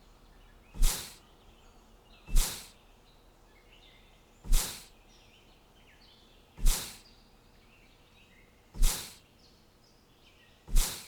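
Faint small-bird chirping and twittering, broken by six loud, short noisy bursts that come about every two seconds, each fading quickly.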